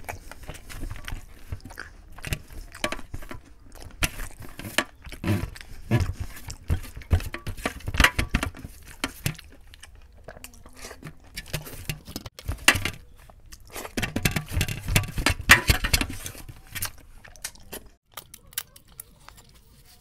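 Close-miked chewing and wet lip smacking of chicken biryani eaten by hand, with fingers gathering rice from a metal tray: dense irregular clicks and smacks that thin out near the end.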